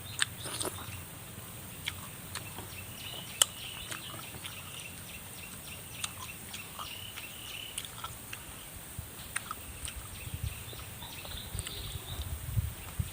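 Scattered wet clicks and smacks of someone chewing and eating chicken feet, with birds calling in the background.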